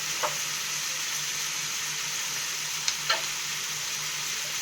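Chicken pieces with onion and tomato frying in hot oil in a pan, a steady sizzle. A stirring spoon gives a few light taps, once about a quarter second in and twice near three seconds in.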